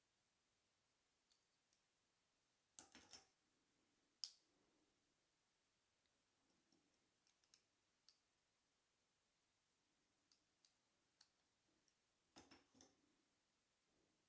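Faint, scattered clicks and taps from handling a Shimano Deore XT M730 thumb shifter and working its lever, with louder clusters of clicks about 3 seconds in and near the end and a single sharp click just after 4 seconds.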